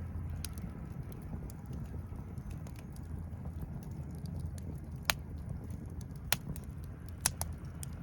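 Wood campfire crackling over a steady low rumble, with a few sharp pops in the second half.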